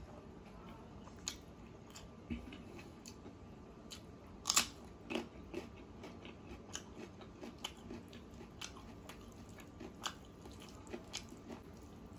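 A person chewing a mouthful of rice and chicken curry with an open mouth, making a run of short wet clicks and crunches; the loudest crunch comes about four and a half seconds in.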